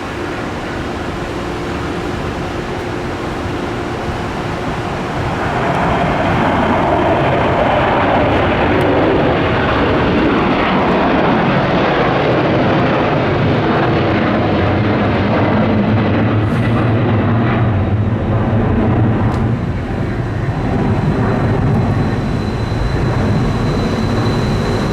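Airbus A300-600F freighter taking off, its twin jet engines at full thrust. The roar swells about five seconds in and stays loud, with a low steady drone coming through later.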